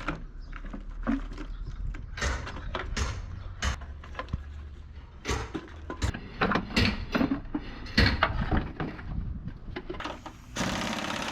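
Irregular knocks and clanks of hand work on a truck cab, over a low hum that fades a few seconds in; a steady hissing noise starts near the end.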